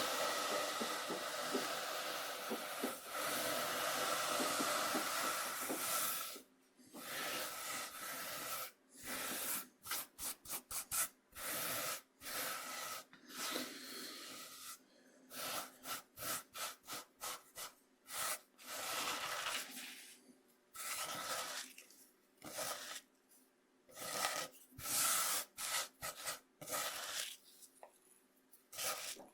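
Coarse cornmeal scraped across a bamboo cutting board: about six seconds of unbroken gritty scraping, then a run of short strokes coming in quick irregular clusters.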